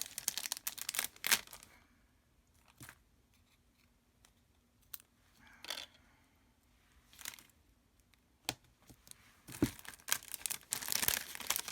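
Craft supplies being handled: crinkling and rustling at the start and again from about ten seconds in, with a few sharp taps and clicks in the quieter middle stretch.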